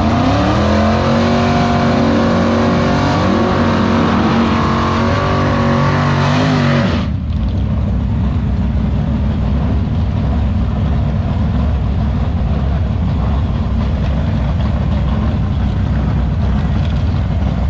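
Drag car engines. For about the first seven seconds an engine revs, its pitch rising and stepping up and down; then it changes abruptly to a steady, heavy low rumble of a car idling up to the start line.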